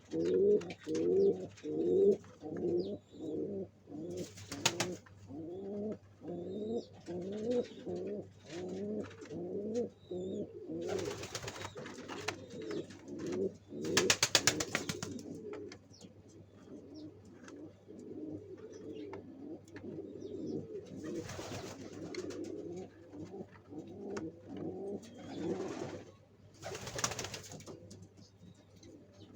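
Domestic pigeons cooing over and over: a quick, loud string of short coos about two a second at first, growing softer and less regular after the middle. Several brief noisy rustles break in, the loudest around the middle.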